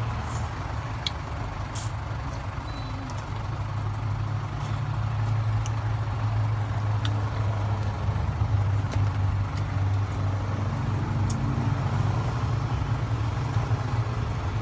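Steady low motor rumble, with a few light clicks over it.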